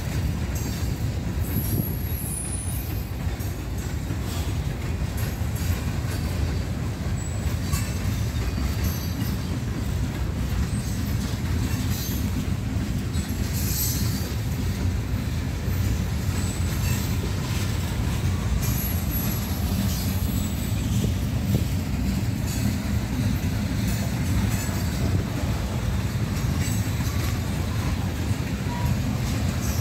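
Freight train of covered hopper cars rolling past: a steady low rumble of wheels on rail, with brief high-pitched wheel squeals several times.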